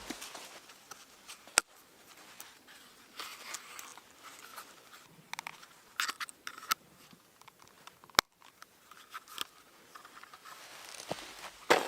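Light rustling and scattered small clicks of something being handled, with two sharp ticks, one early and one past the middle.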